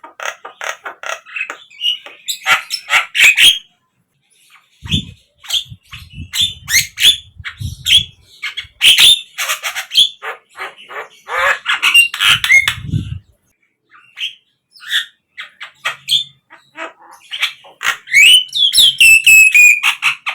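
Javan myna song: a run of harsh squawks, rapid chattering notes and a few sliding whistles near the end, with a couple of stretches of low rumble in between.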